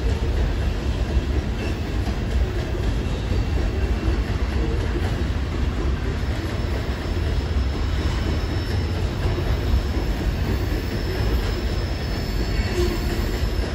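A coal train's hopper cars rolling steadily past on the rails with a continuous low rumble. A faint high-pitched wheel squeal joins in about halfway through.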